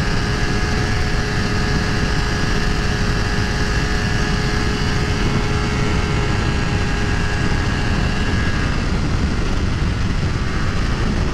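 Honda CBR250RR engine running at a steady high speed on the open highway, its note holding level as the bike cruises near full throttle, under a heavy rush of wind on the helmet microphone.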